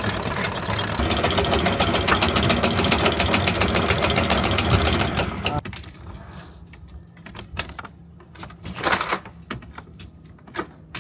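Electric anchor windlass running and hauling chain over its gypsy: a steady motor hum with a fast rattling clatter of links. It cuts off suddenly about five and a half seconds in, and a few scattered knocks follow.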